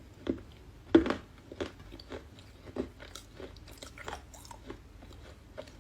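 Chinese clay being bitten and chewed: one sharp crunch about a second in, then a run of smaller crunches about two a second that grow softer.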